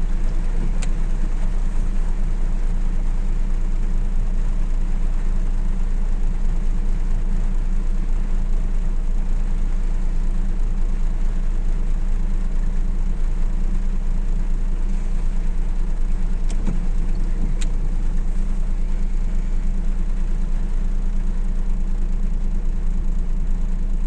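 Steady, even low rumble inside a Suzuki Mehran car, with a few faint ticks now and then.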